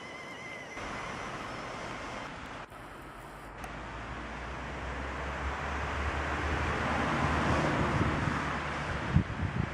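A vehicle passing by: a broad rushing noise over a low steady hum that swells to a peak late on and then eases off, with a few knocks near the end.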